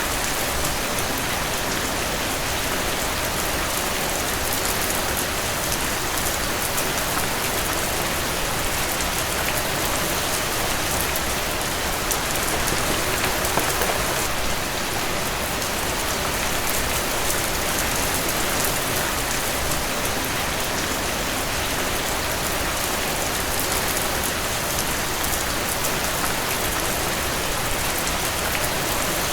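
Heavy rain falling steadily, pattering on a cabin porch, a dense even hiss that swells slightly about halfway through.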